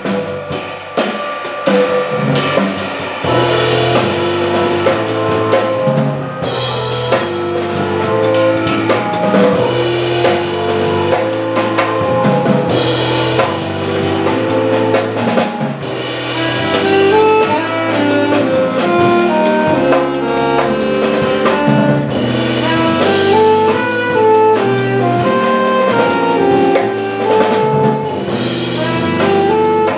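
Jazz organ trio playing live: a drum kit with bass drum and rim clicks under the organ, which carries a moving low bass line and a melody above it.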